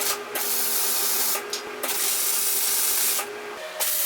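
Stick (arc) welder laying a tack weld on steel flat bar: the arc crackles and hisses loudly, going out briefly twice and striking again, over a faint steady hum.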